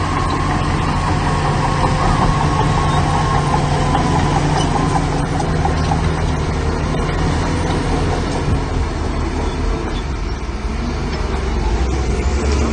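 Heavy diesel machinery engine running steadily, with a high whine over the first few seconds that fades away.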